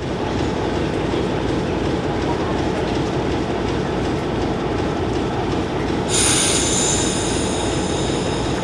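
A heritage railway train running along the track, a steady rumbling clatter of wheels and carriages; about six seconds in a high-pitched wheel squeal joins it.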